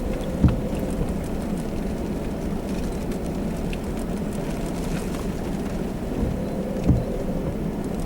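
Steady road and engine rumble inside a vehicle's cabin as it drives slowly, with two short low thumps, one about half a second in and one near the end.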